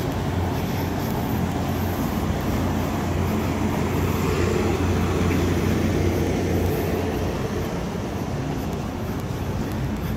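Korail passenger train standing at a station platform with its doors open, giving a steady low hum and rumble that swells a little around the middle.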